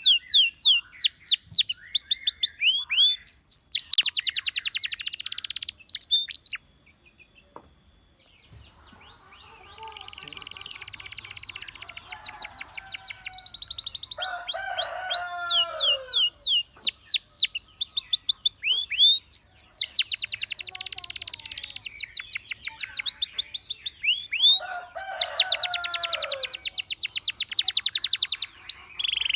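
Canary singing: long runs of rapid, high down-slurred whistled notes alternating with fast buzzy trills, with some lower descending phrases mixed in. The song breaks off for about two seconds roughly a quarter of the way in, then resumes.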